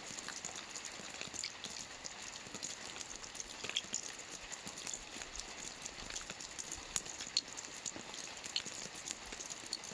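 Soft rain falling on a roof: a steady hiss under a dense, irregular patter of drops, with an occasional louder single drop.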